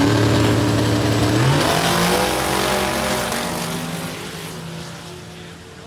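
Car engine running loudly, then revving up in pitch about a second and a half in and fading away over the last few seconds.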